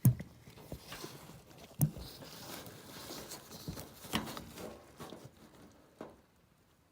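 Handling noise: a few sharp knocks and clunks with rustling between them, the loudest right at the start, another about two seconds in and another about four seconds in, then it dies away.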